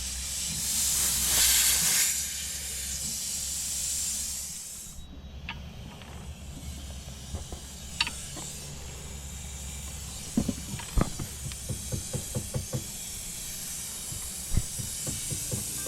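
Nitrogen hissing as it flows from the regulator into a mini split's refrigerant line set to pressurize it for a leak test. The hiss is loudest in the first couple of seconds and cuts off suddenly about five seconds in. Later comes a run of light clicks.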